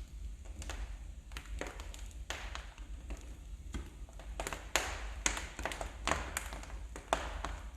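Wood fire burning in a fireplace, crackling and popping with irregular sharp snaps over a low steady rumble of the flames.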